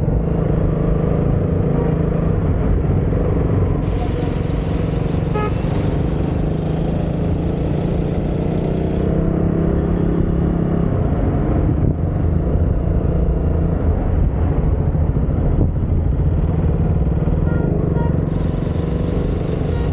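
KTM Duke 200's single-cylinder engine running steadily, with a brief higher tone about five seconds in.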